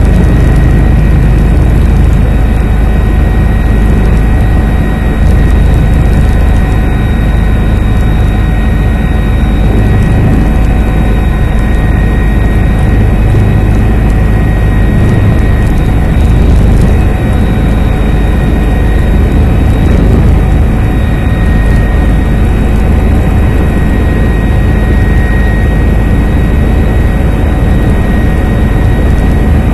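Helicopter in flight, heard from inside: the engine and rotor make a loud, steady noise with a constant high whine over it.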